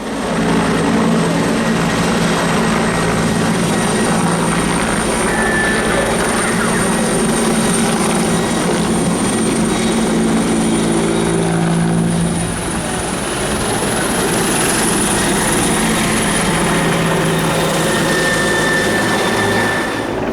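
Helicopter running steadily and loudly, with a low rhythmic drone from the rotors and a thin high turbine whine over it.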